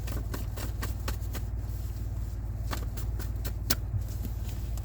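Reading cards being shuffled and handled: a scattered run of light clicks and snaps, one sharper about three-quarters of the way through, over a steady low hum.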